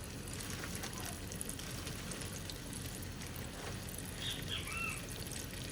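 Chicken frying in oil in a deep fryer, sizzling steadily, with a few faint high squeaks about four and a half seconds in.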